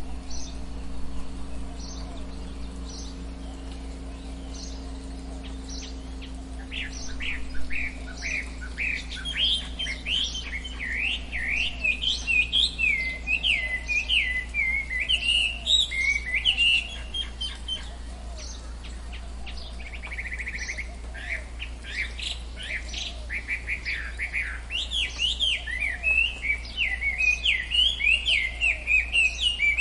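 Several tropical forest birds calling: a short high call repeats about once a second at first, then from about seven seconds in a dense mix of quick chirps and whistles takes over, with a brief buzzy trill around the middle. A steady low hum runs underneath.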